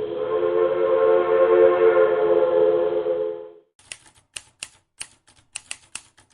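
Locomotive air horn sounding a long steady chord of several tones, cut off abruptly about three and a half seconds in. A run of sharp, irregular typewriter-like clicks follows.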